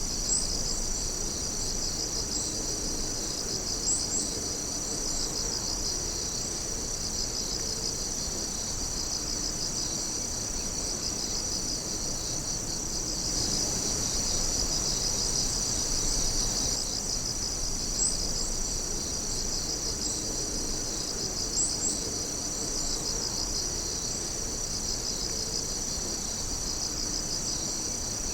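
A chorus of night insects, crickets and katydids, trilling steadily in high, fast-pulsing overlapping calls, with a few brief higher chirps now and then.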